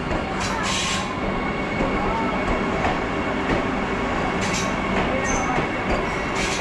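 Vande Bharat Express train rolling slowly along the platform: a steady rumble of wheels on the rails, with a few brief high hisses.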